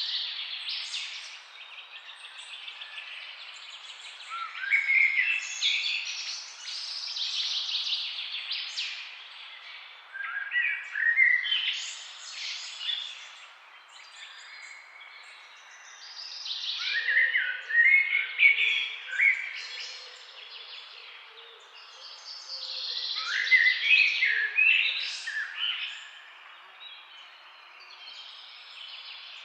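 Several songbirds chirping and singing in bursts of quick trills and chirps that come back every few seconds, over a steady background hiss.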